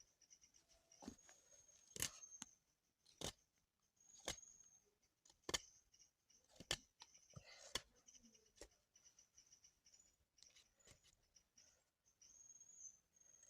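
A series of sharp clicks or snaps, about one a second, then sparser, over a faint steady high-pitched tone.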